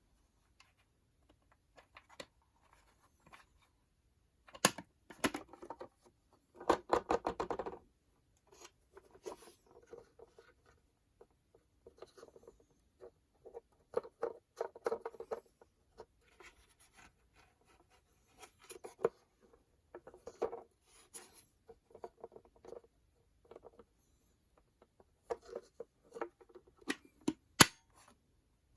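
Intermittent handling noises: clicks, scratches and rustling, with a brief rasping burst about seven seconds in.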